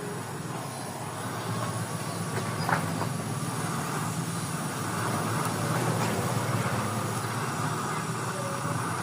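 Engine running through a gutted ('bobokan') exhaust muffler: a steady low rumble that grows a little louder over the first few seconds. A single sharp click sounds about three seconds in.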